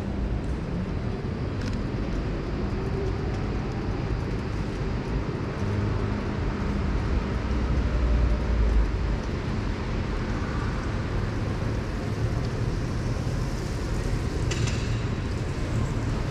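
Urban ambience of vehicles and traffic: a steady low rumble that swells for a moment about eight seconds in, with a short sharper clatter near the end.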